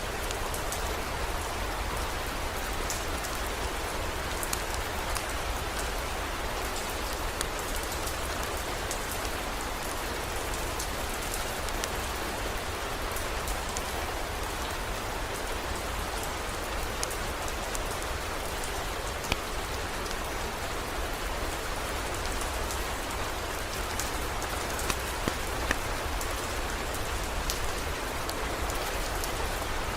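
Heavy rain falling steadily, with scattered sharp ticks and a few louder ones in the second half, over a low steady rumble.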